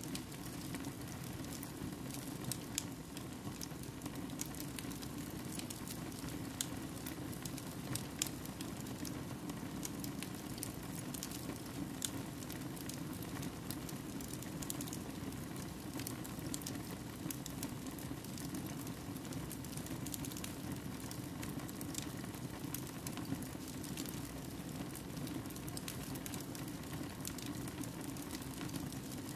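Wood fire burning in a fireplace, crackling with irregular sharp pops and snaps over a steady low rushing noise.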